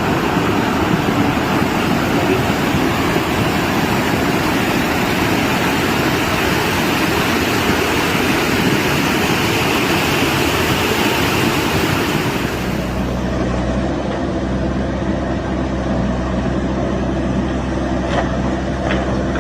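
A loud, steady rushing roar. About twelve seconds in it cuts to an engine running steadily at idle, with a few light clicks near the end.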